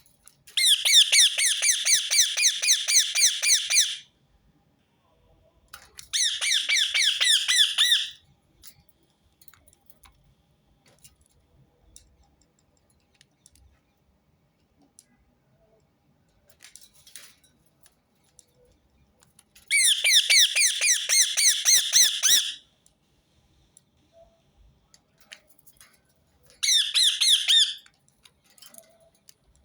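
Rose-ringed parakeet giving four bouts of rapid, shrill repeated calls, each lasting one to three and a half seconds, with faint clicks in the gaps between them.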